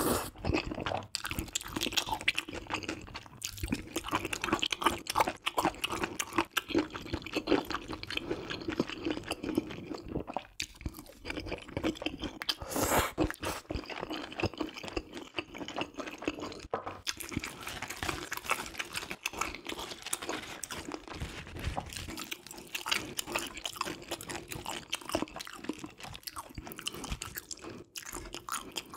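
Close-miked wet chewing and lip-smacking of a person eating spicy stir-fried baby octopus and chewy udon noodles, a dense run of quick sticky mouth clicks, with one louder burst about thirteen seconds in.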